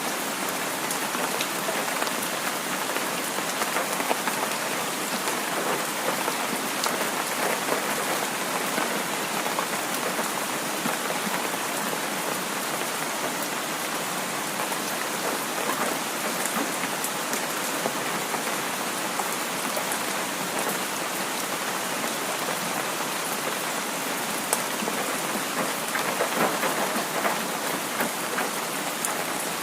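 Heavy rain falling steadily: an even, dense patter of many small drops.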